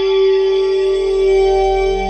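Waldorf Quantum synthesizer playing a sustained held note over a low drone. A second, lower note comes in near the end.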